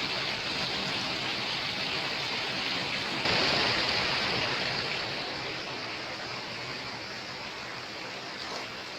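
Steady rush of flowing water. It jumps louder a little over three seconds in, then slowly fades.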